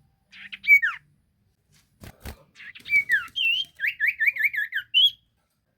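Sirtu songbird singing: loud whistled phrases of sliding notes, ending in a quick run of about five rising-and-falling notes. A brief knock sounds about two seconds in.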